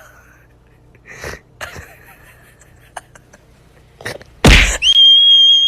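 A single loud sneeze about four and a half seconds in, after a few faint short sounds, followed at once by a steady high tone that holds.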